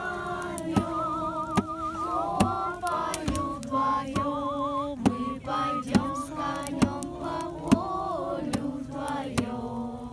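People singing together, holding long notes with a wavering vibrato. Sharp pops and crackles from a campfire sound throughout.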